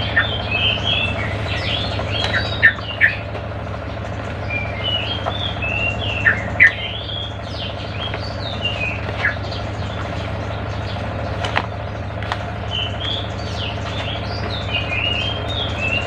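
Small birds chirping in quick clusters of short, rising and falling notes that come and go several times, over a steady low hum.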